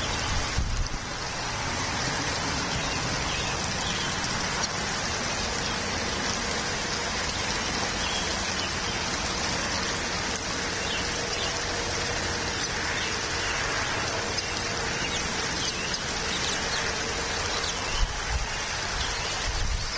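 Steady, even outdoor hiss that sounds like rain, with faint high chirps scattered through it.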